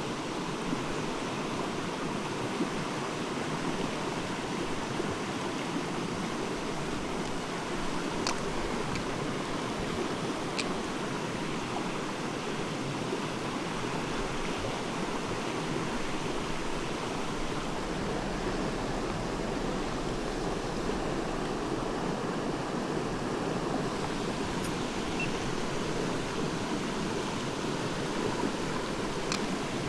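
Mountain stream rushing steadily over rocks, with a few faint clicks.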